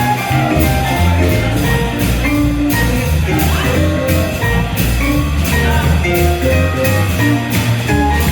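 Live swing jazz band playing an up-tempo tune, with a bass line, drums keeping a steady beat and held melody notes.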